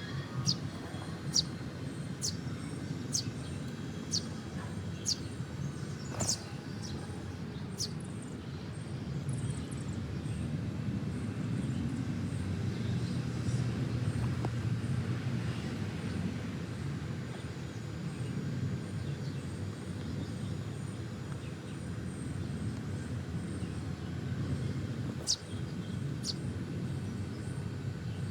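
Short, high bird chirps, a quick run of them in the first six seconds and two more near the end, over a steady low rumble that swells in the middle.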